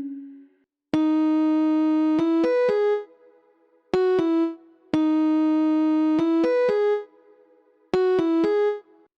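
Bionic Plucks & Mallets virtual instrument playing a bright, keyboard-like preset: short phrases of a held note followed by a quick run of notes, with brief silences between them.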